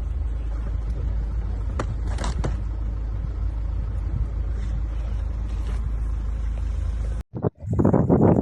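Steady low rumble of a motor vehicle, with a few faint clicks. It cuts off abruptly about seven seconds in, and loud voices follow near the end.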